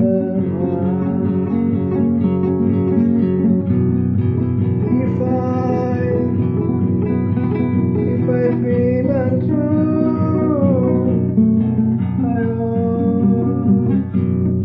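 Acoustic guitar music: steady plucked chords with a wavering melody line above them.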